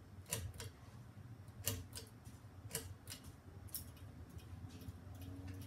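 GEV ceiling fan running on low speed: a steady low motor hum with light, sharp clicks at uneven intervals, about one a second.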